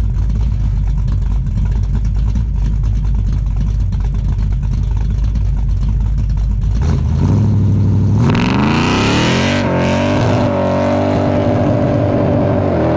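Muscle-car engine breathing through Porter mufflers doing a burnout: a steady low rumble for about seven seconds, then the revs climb sharply and are held high to the end, with a hiss of spinning tyres briefly over it as the revs rise.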